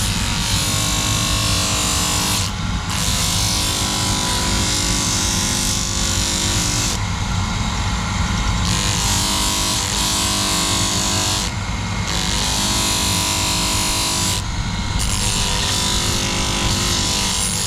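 Electric grinder running steadily, its motor hum under a loud, harsh hiss of steel being ground. The hiss breaks off briefly about four times, when the steel comes off the abrasive.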